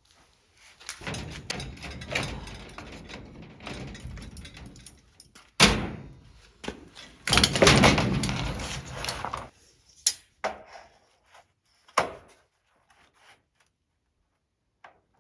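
Work noise from handling a plastic body panel on a race car: rustling and scraping in two long stretches, a sharp bang about five and a half seconds in, and a couple of single knocks later.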